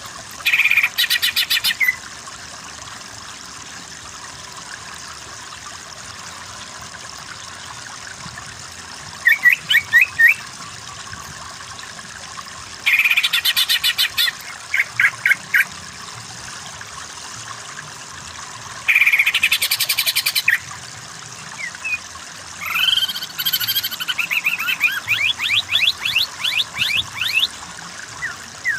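Greater green leafbird (cucak ijo) singing in loud bursts of rapid, sharp repeated notes and trills: five phrases with pauses of a few seconds between them, the last one longer. Running water trickles steadily underneath.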